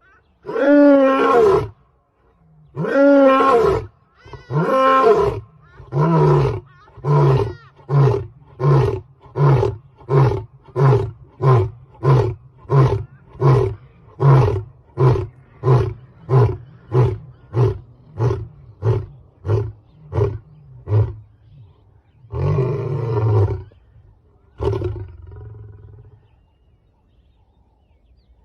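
Big cat roaring: three long, moaning roars falling in pitch, then a long run of short grunts at a little more than one a second that grow shorter and weaker. After a pause it gives one more long roar and a final short grunt.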